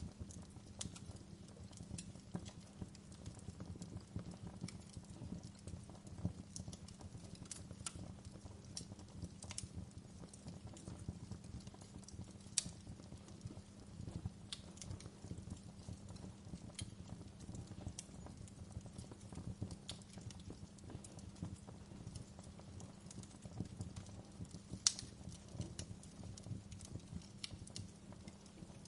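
Wood fire burning in a fireplace: a steady low rumble of flames with irregular small crackles and a couple of louder pops.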